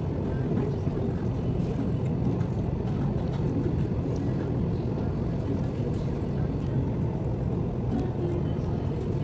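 A steady low rumble with faint background voices.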